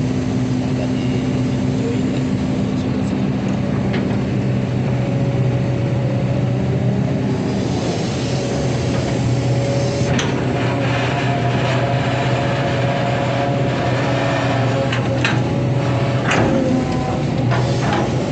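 Long-arm excavator's diesel engine running steadily under load, with a steady higher whine above it and a few sharp metallic clanks in the second half.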